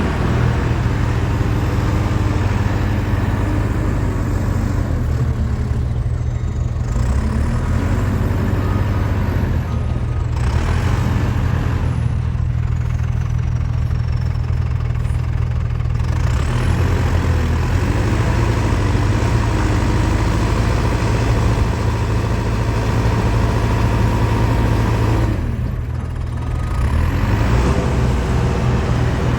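Diesel engine of a backhoe loader running steadily while it works. Its sound dips briefly a few times.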